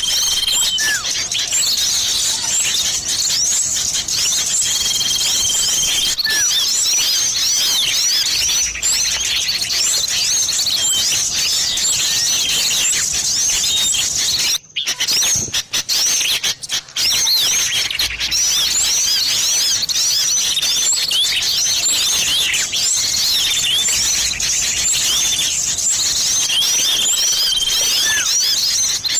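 Bird-lure recording of small songbirds chattering, a dense mix of fast chirps and short whistles with a steady held whistle now and then, billed as sirtu and common iora (cipoh) calls combined. The sound cuts out briefly a few times about halfway through.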